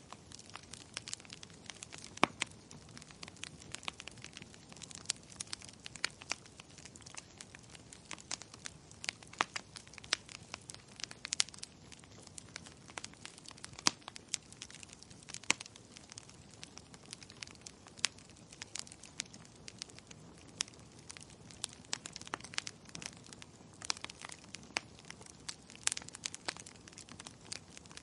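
Wood fire crackling in a fireplace: a steady hiss of burning with frequent irregular sharp pops and snaps, a few of them louder.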